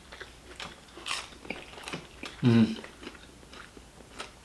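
Person chewing chicken nuggets with soft, scattered mouth clicks, and a short murmur from a voice about two and a half seconds in.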